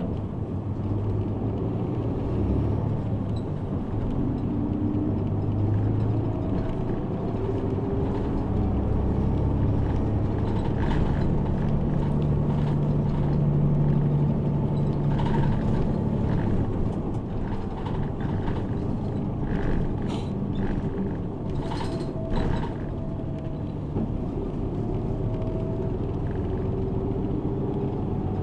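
Inside a city bus on the move: steady engine and road rumble, with the engine note slowly rising and falling as the bus changes speed. A few short rattles or clicks come in the middle part.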